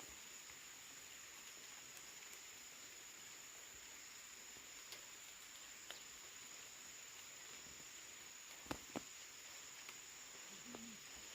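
Faint outdoor ambience: a steady high insect drone, with two light clicks close together near the end.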